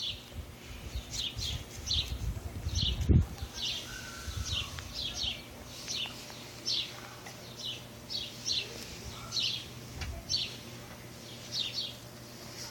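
A small bird chirping over and over: short high chirps, each dropping slightly in pitch, coming irregularly about one or two a second and often in pairs. There is a low thump about three seconds in.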